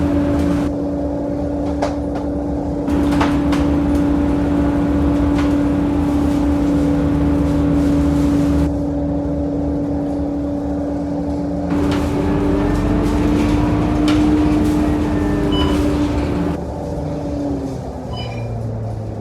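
Onboard sound of a Scania K230UB diesel city bus under way: engine and drivetrain running with a steady whine over road rumble. Near the end the whine fades out and a lower steady hum remains as the sound drops.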